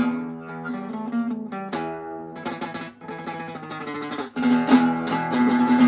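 Acoustic guitar playing an instrumental passage between sung lines: picked notes, then fuller strumming about four seconds in.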